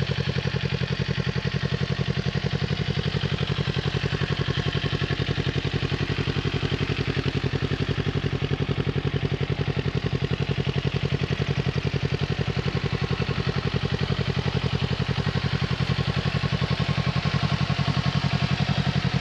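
Kawasaki Ninja 400 parallel-twin engine breathing through an Akrapovic carbon slip-on exhaust with its baffle in, running steadily with an even, low pulsing exhaust beat that grows a little louder near the end.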